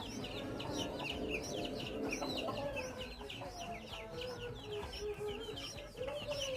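Baby birds peeping continuously in quick, high chirps, several a second, with slower, lower clucking calls underneath.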